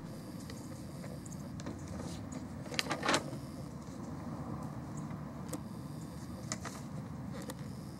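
Steady low rumble of distant road traffic, with a few brief sharp high clicks or chirps, the loudest about three seconds in.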